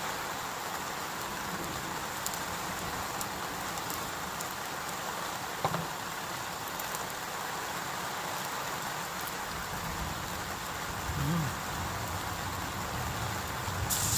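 Heavy rain falling steadily, with a few faint drip ticks and one brief tap about halfway through.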